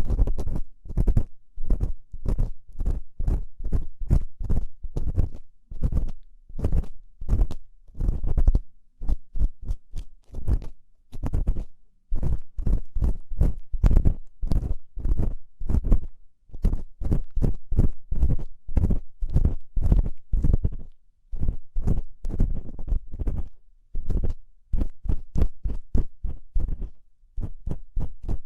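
An ear-cleaning tool scraping and rubbing close to the microphone in quick repeated strokes, about two a second with a few short pauses, with a crackly, crunchy edge.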